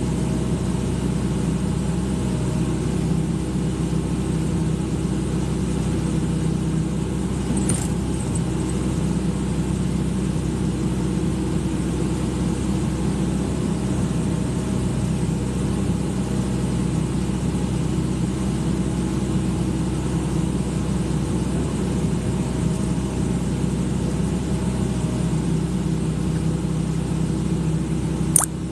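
Excavator engine running at a steady speed, with no revving. A sharp click sounds just before the end.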